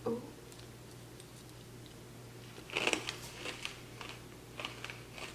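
Chewing a mouthful of crème brûlée, its torched caramelized-sugar crust crunching in small irregular crackles, loudest about three seconds in.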